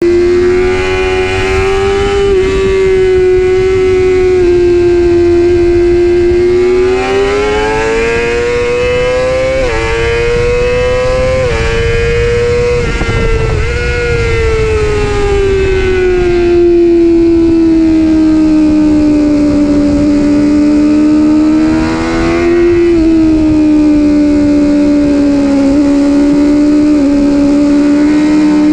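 Honda CBR600RR inline-four engine running hard at high revs. Its pitch climbs and then drops sharply at upshifts about ten and twelve seconds in, sinks slowly for several seconds, then rises briefly and settles.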